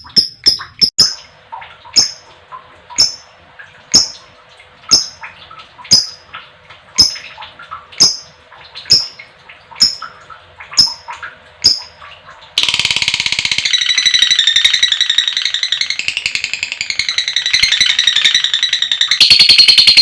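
Female lovebird calling: sharp single high chirps about once a second, then, about two-thirds of the way through, an abrupt switch to a loud, very fast chattering trill that runs on. This is the long "ngekek" song used as a bait call to excite other lovebirds.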